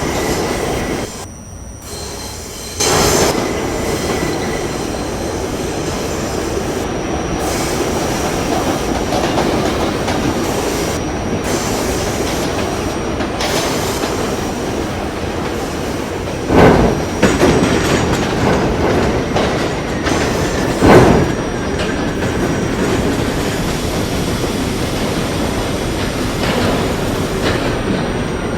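R68A subway train running between stations: a steady rumble of wheels on rail, broken by a few sharp loud knocks, the strongest about 17 and 21 seconds in.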